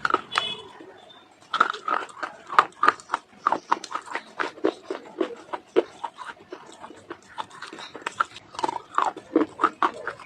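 Crunching and chewing as a person bites into and chews dry clay: rapid, irregular crisp cracks and mouth sounds, with a short lull about a second in.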